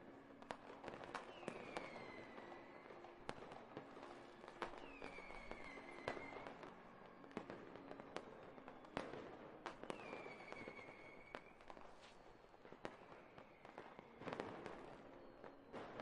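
Faint fireworks: scattered crackling bangs, with three whistling rockets whose whistle falls in pitch.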